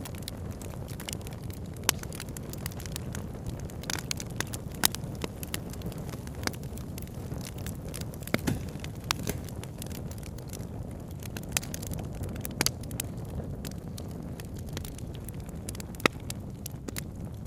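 Campfire crackling, with sharp irregular pops and snaps over a steady rushing of river water.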